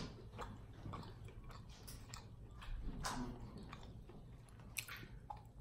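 Chewing a crisp-edged cookie close to the microphone: soft, irregular crunches and mouth clicks, with a few louder ones about three seconds in and near the end.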